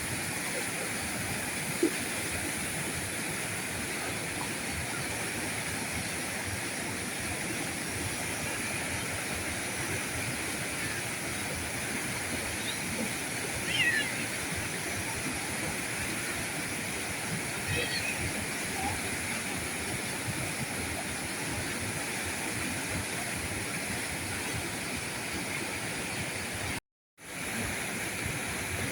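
River current flowing and rushing steadily, an even wash of water noise with a few faint short chirps over it around the middle. The sound cuts out completely for a moment near the end, then returns.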